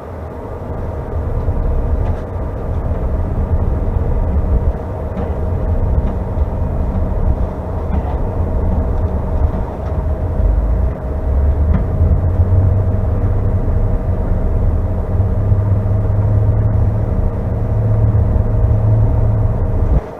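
Cabin sound of a CRJ900's rear-mounted GE CF34 jet engines running with a steady whine, over a heavy low rumble that grows stronger about twelve seconds in.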